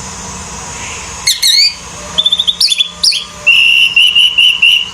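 Orange-headed thrush (anis merah) singing: a few loud swooping whistled notes, a quick run of chirps, then a long trill held on one pitch over the last second and a half.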